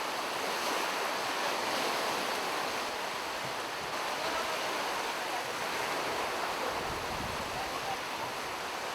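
Sea surf washing steadily on a beach, with a brief low rumble about seven seconds in.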